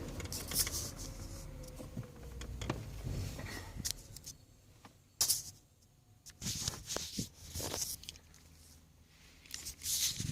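Faint rustling and scattered light clicks of someone moving about and handling things, with a low rumble fading away in the first couple of seconds.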